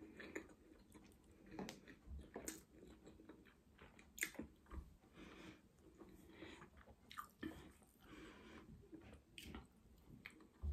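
Faint close-up chewing of a soft steamed momo dumpling, with irregular wet mouth clicks and smacks every second or two.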